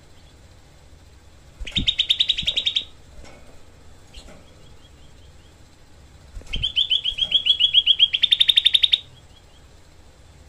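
Cucak kelabu (grey-bellied bulbul) giving its rapid, harsh 'shot' trill: two bursts of fast repeated notes, a short one about two seconds in and a longer one in the second half.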